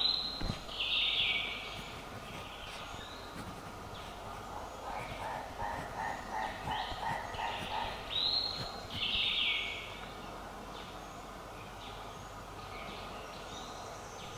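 Birds calling over a steady forest background: two loud high calls that hold and then drop, one right at the start and one about eight seconds in, and a quick run of lower repeated notes around the middle.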